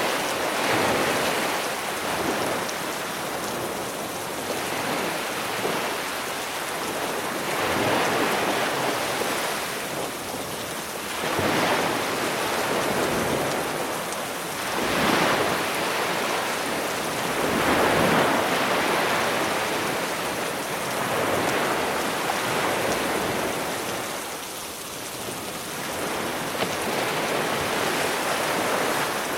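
Sea waves washing onto the shore, swelling and falling every few seconds, under a steady hiss of rain.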